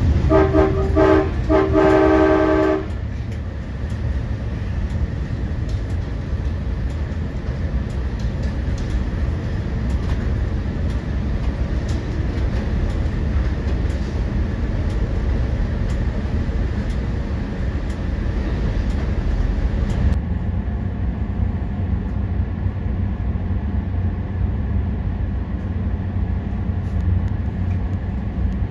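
Train horn sounding in several short blasts and then one longer blast that ends about three seconds in, followed by the steady low rumble of a train running.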